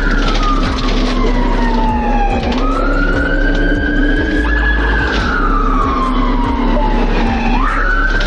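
Police car siren sounding a slow wail. The pitch sweeps up quickly, then falls slowly over a few seconds, and sweeps up again about two and a half seconds in and once more near the end.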